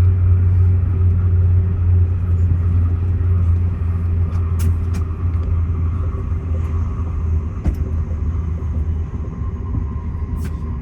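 Steady low rumble of a moving passenger train heard from inside the carriage, with a faint steady hum and a few light clicks.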